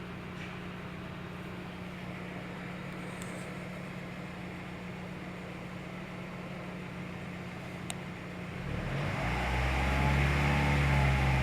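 Car engine running with a steady low hum. About nine seconds in, a louder, deeper engine drone builds up and then holds steady.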